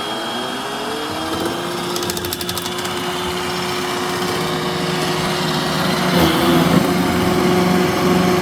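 Roomba i7+ robot vacuum running with a steady motor hum and whine. The whine rises in pitch in the first second and then holds steady.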